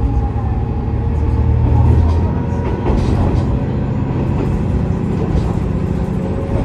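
KiHa 47 diesel railcar running along the line, heard inside the car: the diesel engine's low drone over steady wheel-on-rail rumble. The engine drone eases off about two seconds in, leaving mainly the rolling rumble with a few faint clicks.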